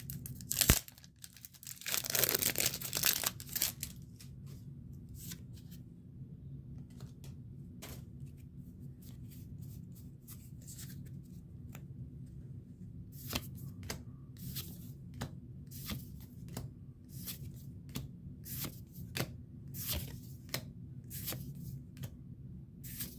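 A Pokémon TCG booster pack's foil wrapper is torn open about two seconds in. It is followed by a long run of short, sharp flicks and clicks as the cards are slid and flipped one by one. A steady low hum runs underneath.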